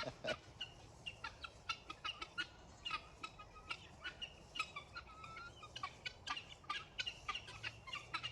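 A flock of domestic helmeted guinea fowl calling: many short, sharp calls overlapping, several a second.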